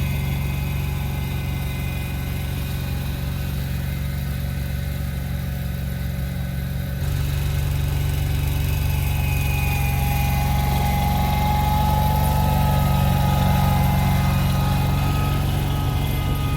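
A vehicle engine running steadily with a low drone, its note stepping up slightly about seven seconds in.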